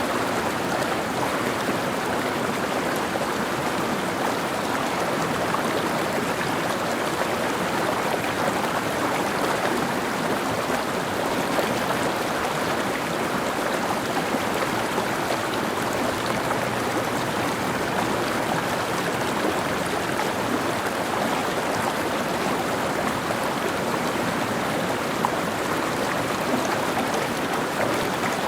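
Mountain stream running over rocks, a steady rush of water.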